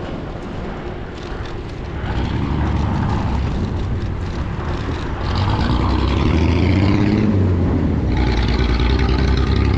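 A motor vehicle engine running and picking up, growing louder about two seconds in and again about halfway through.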